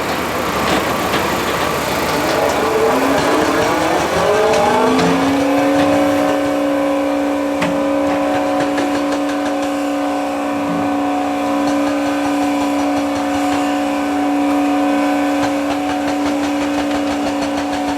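A heavy construction machine's engine revs up, rising in pitch over about two seconds, then holds a steady high-revving tone, with a few sharp knocks over it.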